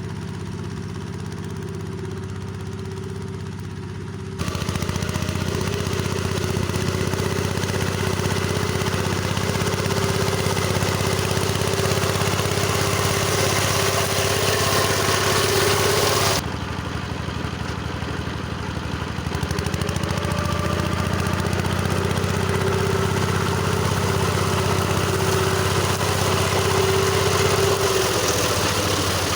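Tractor engine running steadily while driving a rotary mower through tall grass. The sound jumps abruptly in loudness and tone about four seconds in and again about sixteen seconds in.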